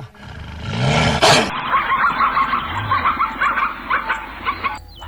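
Animal calls: one loud call with a pitch that rises and falls about a second in, then a quick run of many short calls for about three seconds.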